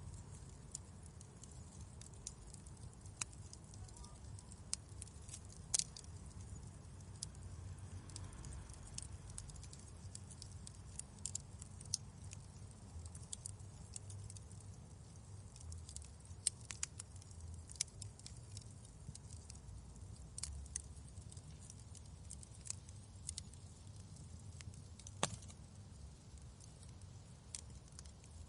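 Wood fire in a fireplace crackling, irregular sharp pops and snaps over a low steady rumble, with a couple of louder pops.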